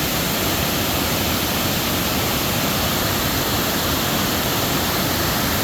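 Steady rushing of a waterfall on the Falling Water River, a constant even wash of water noise.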